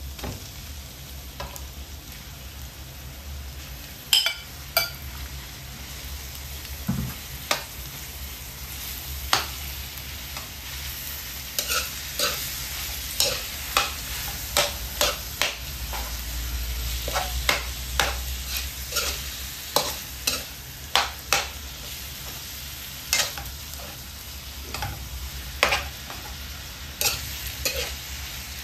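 Minced buffalo meat frying with a steady sizzle in a metal wok while a metal spatula stirs and breaks it up, clanking sharply against the wok. The clanks start about four seconds in and come about once or twice a second through the second half.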